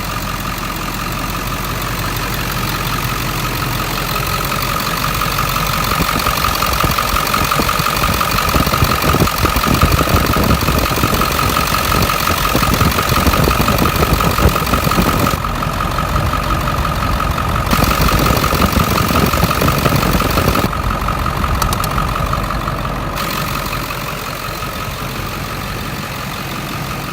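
Ford 7.3L Power Stroke V8 turbodiesel idling, with a steady high whine over the low rumble. It grows louder over the first several seconds and eases off again near the end.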